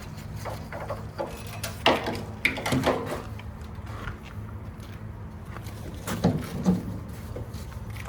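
A steady low engine hum, with a few sharp knocks and clatters about two seconds in and again about six seconds in.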